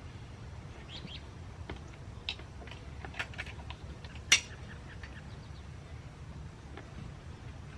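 Hands working the straps of an inflatable motorcycle seat cushion into place: scattered small scrapes and light clicks, with one sharper click about four seconds in, over a low steady background rumble.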